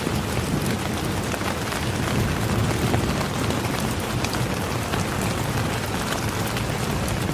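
Steady rain falling, an even hiss with many fine drop ticks and a low rumble underneath.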